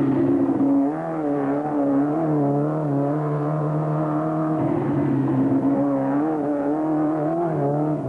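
Off-road race car engine running, its revs rising and falling over a steady underlying drone.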